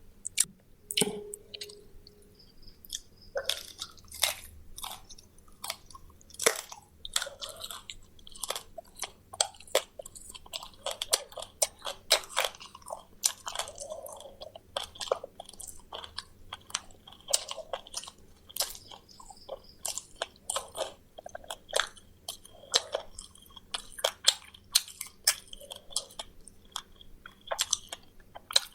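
Close-up chewing and crunching of fried quail, bones and all, with many sharp crackles and snaps as the small bones are bitten through and ground.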